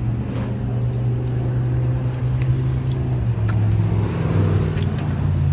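Car engine running steadily with a low, even hum that dips slightly in pitch about four seconds in, with a few light clicks over it.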